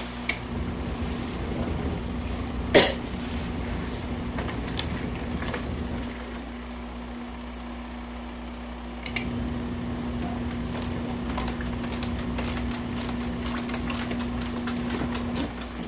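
Compact twin-tub washing machine agitating a hot-water load: a steady motor hum with low churning of water and laundry. The churning eases for about three seconds midway, then picks up again as the pulsator reverses. There is one sharp knock about three seconds in.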